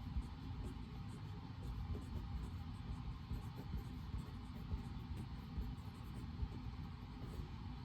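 Steady white-noise ambience of a study reading room: an even low rumble with a soft hiss above it, unchanging throughout.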